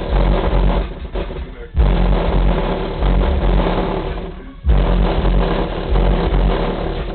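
Bass-heavy music played loud through two 12-inch Audiobahn AW1206T subwoofers driven by an Autotek SX-1200x amplifier, deep low notes hitting hard. The bass drops out briefly twice and slams back in each time.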